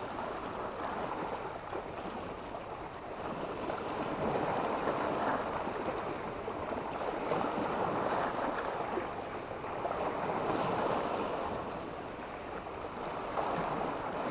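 Sea waves washing onto a beach, a continuous rush of surf that swells and eases every few seconds.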